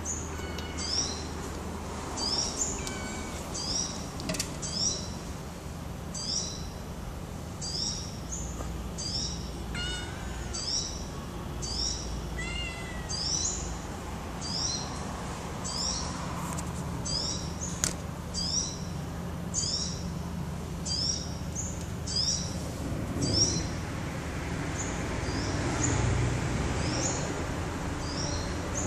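A bird chirping over and over, a short rising chirp about three times every two seconds. A kitten mews two or three times around the middle, and there is rubbing handling noise near the end as the kitten is stroked.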